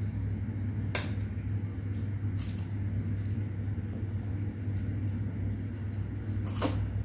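A few short utensil clicks against a plate while eating: one about a second in, another at two and a half seconds, and one near the end, over a steady low hum.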